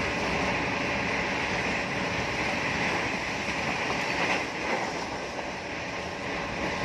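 Train running at speed: a steady rushing noise of wheels and air with no distinct clickety-clack rhythm.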